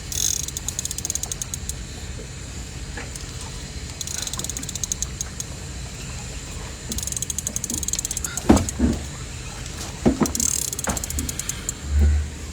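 Fishing reel clicking in quick ratcheting bursts as line is worked on a hooked catfish, with a few dull thumps near the end.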